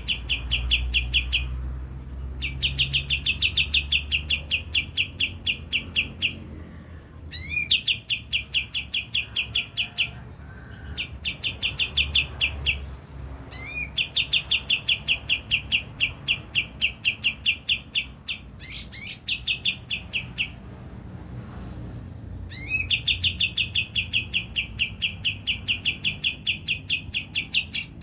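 Kapas tembak songbird singing in bouts of rapid, evenly repeated chirps, about six notes a second, each bout lasting several seconds and opening with a quick rising note, with short pauses between bouts.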